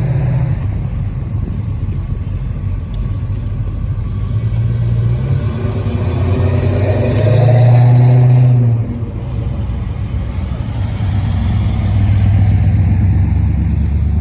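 Car engines running at low revs, with a steady low drone. One engine grows louder about seven seconds in and drops away sharply near the nine-second mark.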